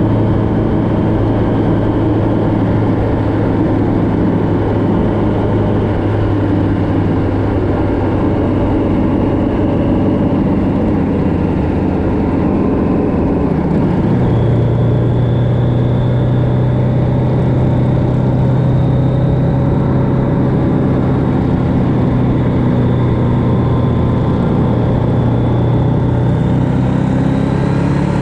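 Vehicle engine running steadily at road speed on a long winding mountain road, under a steady haze of road noise; about halfway through its pitch steps up a little and then holds.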